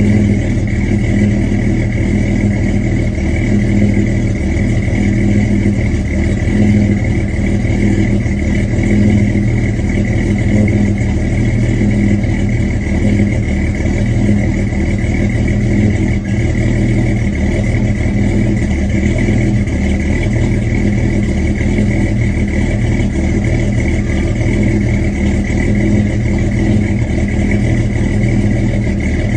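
1963 Chevy Nova engine running steadily at idle, warming up after a cold start on a car left unstarted for three weeks.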